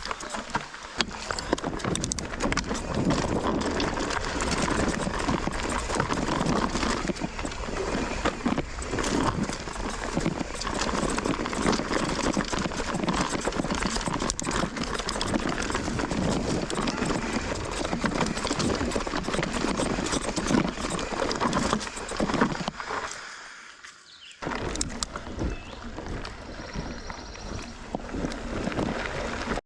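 Mountain bike rattling and clattering over rocky trail, tyres crunching, with many small knocks and clicks running together; it drops out briefly about three-quarters of the way through.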